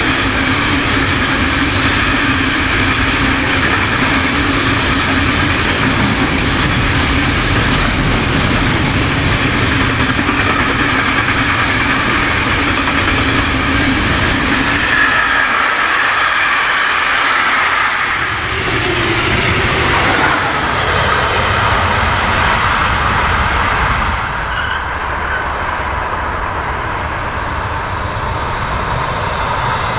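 Container freight train's wagons rolling past close by: a steady, loud rumble and wheel-on-rail noise. In the last quarter the sound drops to a quieter, duller rolling as an electric multiple-unit passenger train approaches.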